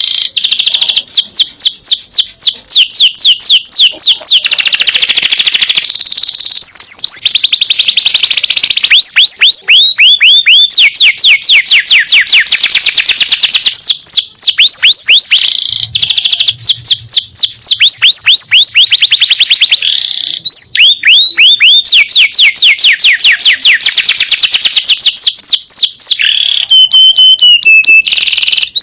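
Male domestic canary singing loudly: long rapid trills of quick falling notes, one run after another with short breaks, and a held whistle near the end.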